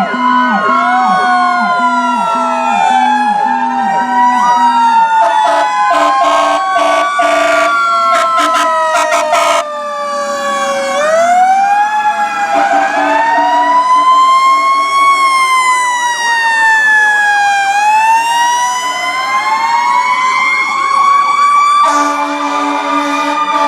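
Several fire truck sirens wailing at once, their pitches rising and falling out of step with one another. Short repeated horn blasts sound early on, and a steady horn blares near the end.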